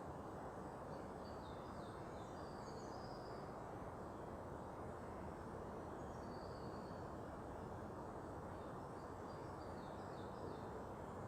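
Faint songbird chirps and short trills, in three bunches, over a steady low noise.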